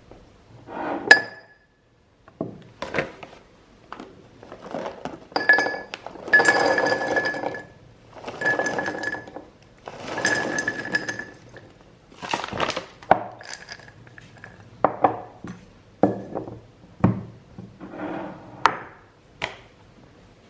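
Hard objects, glass or crockery, clinking and knocking as they are handled and set down, with several stretches of rubbing or scraping between the knocks.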